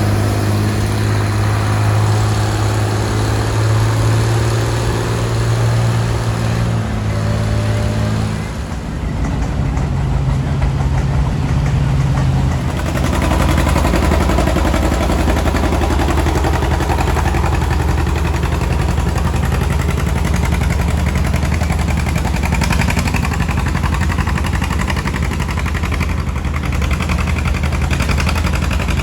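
Antique farm tractor engine running steadily. About eight seconds in, its pitch changes and it settles into a lower, steady run.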